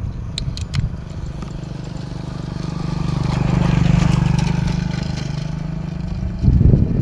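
A motor vehicle engine passing by, growing louder to about four seconds in and then fading, with a few light clicks near the start.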